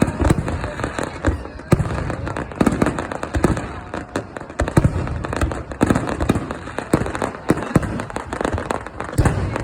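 Fireworks display: a dense, continuous run of bangs and crackling pops, many each second and often overlapping.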